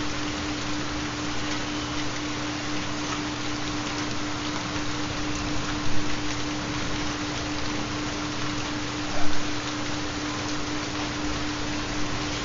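Recorded rain falling steadily, with a continuous low steady tone under it from a 4 Hz theta binaural beat. Two brief louder spatters come about 6 and 9 seconds in.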